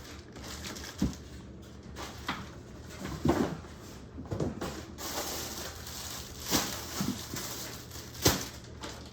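Handling of unboxed supplies: scattered knocks, taps and rustles as bottles and packaging are moved and set down, the sharpest knock near the end.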